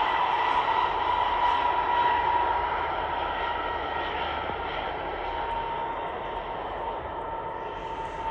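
Jet airliner engines: a steady rushing noise with a high whine running through it, slowly fading from about two seconds in.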